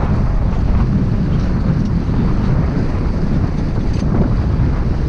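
Wind buffeting the microphone aboard a sailboat under way, with a steady low rumble and the rush of water along the hull.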